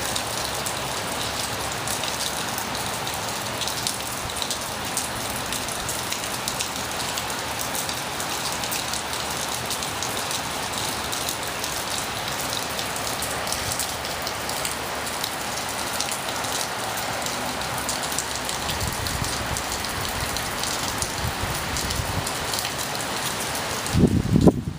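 Heavy rain falling steadily. A low rumble builds in the last few seconds, with a brief loud low burst just before the end.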